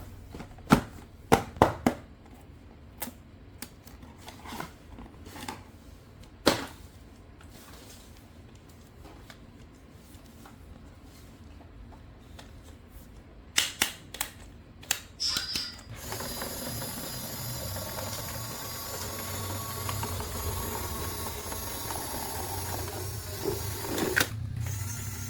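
Scattered sharp clicks and clatters of small plastic toy parts being handled. About sixteen seconds in, a steady mechanical hum with faint tones starts and runs on.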